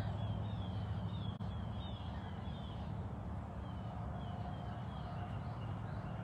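Steady low background rumble, with a bird repeating short, falling high notes a few times a second. The notes break off about three seconds in, then resume for another second or so.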